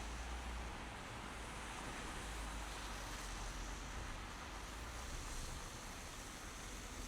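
Steady drive noise of a car on snowy city streets: a hiss of tyres on the road over a low rumble of engine and road, with no distinct events.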